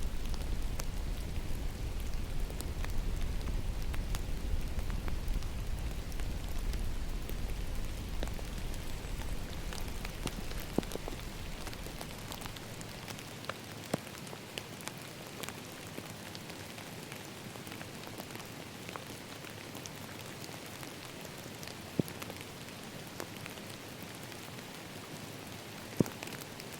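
Steady rain falling, with scattered sharp drips and a few louder single drops. A low rumble underneath fades out about halfway through.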